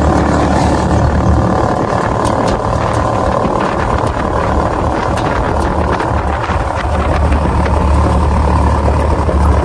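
An engine running steadily, with a low hum that is weaker through the middle and stronger again near the end.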